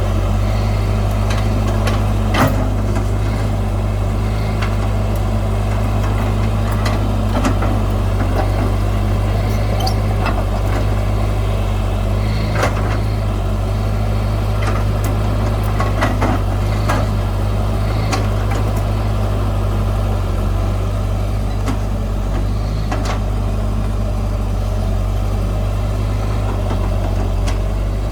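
Heavy diesel engine of earth-moving machinery running steadily, with scattered short knocks and clicks throughout.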